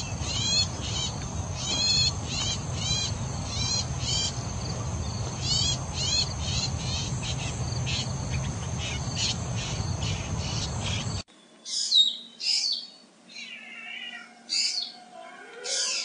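A brown shrike gives a series of harsh, chattering calls, irregularly about twice a second, over a steady high insect drone. About eleven seconds in, the sound cuts abruptly to the varied calls of a black drongo.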